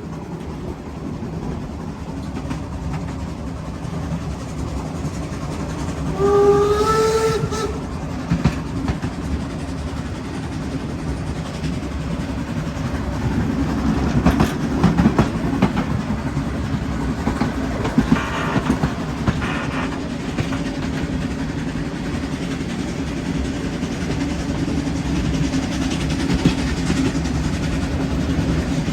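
HSB 2-10-2T narrow-gauge tank steam locomotive and its train running up a 3% grade, a steady rumble with scattered clanks and clicks. One steam whistle blast about six seconds in lasts about a second and a half, its pitch rising slightly.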